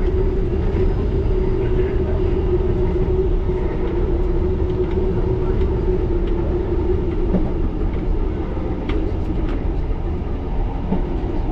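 1938 Tube Stock electric train running: a steady low rumble with a steady hum that fades about two thirds of the way through, and scattered light clicks.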